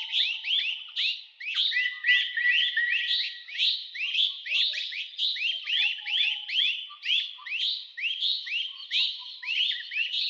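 A chorus of birds calling: many short, rising whistled notes overlapping one another, several a second without pause, with fainter scattered calls from other birds beneath.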